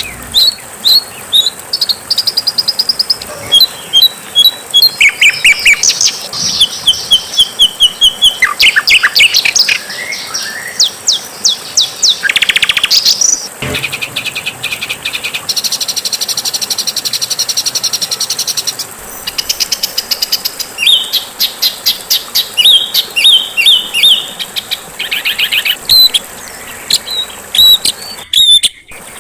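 Songbird songs spliced one after another: fast high-pitched trills, rapid runs of repeated chips and rattling chatter, the harsh 'super kasar' song material used as masteran for training a caged Oriental magpie-robin (kacer). Near the end it drops out for a moment, then resumes.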